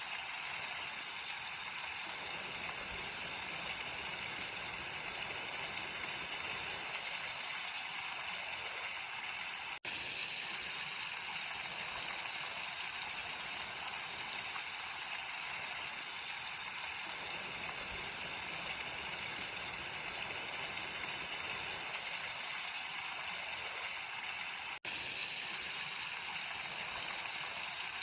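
Mountain stream flowing, a steady rushing hiss of water that cuts out for an instant twice.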